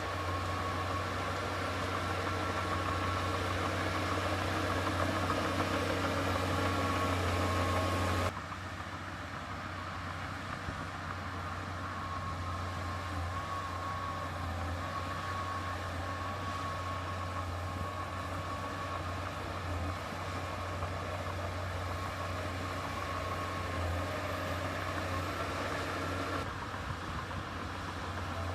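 Heavy diesel engine of earthmoving machinery running steadily. About eight seconds in, the sound drops suddenly to a quieter, duller engine hum that carries on evenly.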